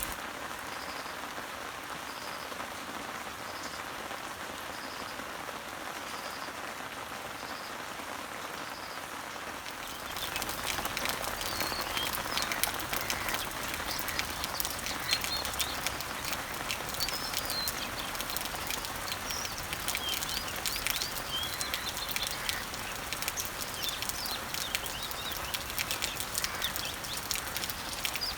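Rain falling on garden leaves as a steady hiss, with a bird repeating a short high note about once a second. About ten seconds in the rain gets louder, with close drips tapping on leaves and several birds chirping.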